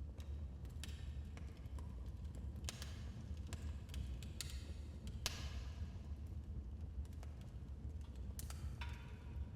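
Wood fire in a fireplace crackling: irregular sharp pops and snaps over a steady low rumble, with one louder pop about halfway through.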